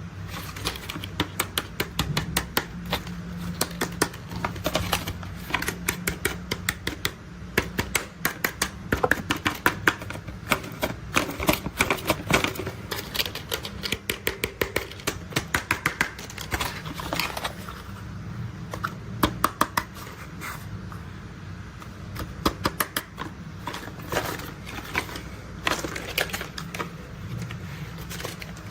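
Rapid, irregular tapping and clicking on toy construction vehicles, in quick runs with short pauses, over a steady low hum.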